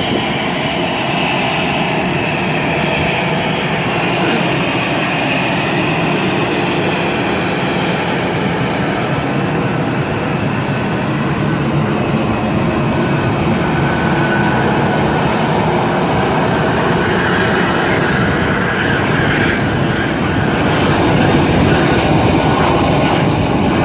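Aeroplane landing in heavy rain: a loud, steady rush of engine and air noise, growing a little louder near the end.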